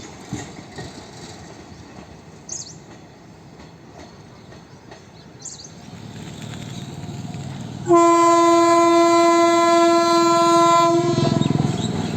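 Indian Railways locomotive horn sounding one long single note, held for about three seconds from about eight seconds in, as the rumble of an approaching train grows louder.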